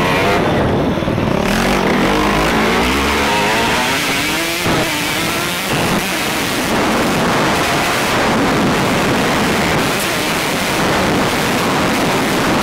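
Motocross bike engine heard from the rider's helmet camera, revving up and down as it accelerates and eases off, with a pitch climb about a third of the way in. A dense rush of wind noise runs under it.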